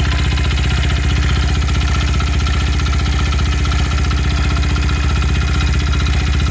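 Fuel-injected Honda Ape air-cooled four-stroke single with a Kitaco 82cc bore-up kit, idling steadily with a clattering noise from the engine that the owner cannot identify.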